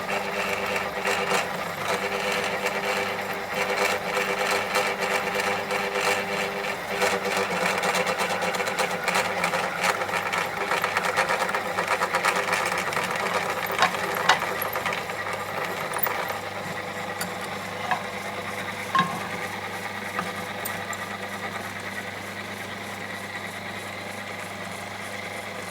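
Electric power tool motor running steadily, with a fast, even machine rattle and a few sharp clicks about midway.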